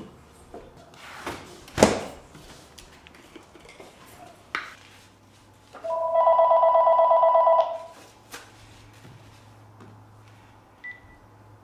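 A telephone ringing once, a warbling two-tone trill lasting under two seconds, about six seconds in. Before it come a few knocks, the loudest a single sharp thump near two seconds in.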